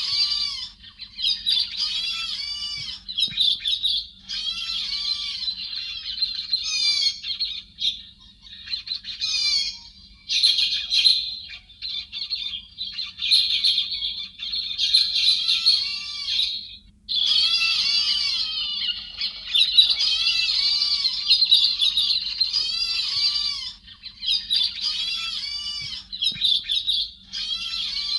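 Héc xoan bird calls: dense runs of quick, sliding, chattering notes that come in bursts with short gaps, including a clear pause about two-thirds of the way through. A faint low hum sits underneath.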